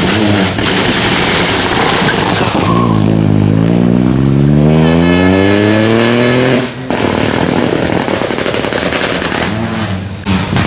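Rally car passing at full throttle. The engine note climbs steadily for about four seconds, then drops off sharply as the driver lifts or changes gear, and the car runs on with a rougher, noisier engine sound.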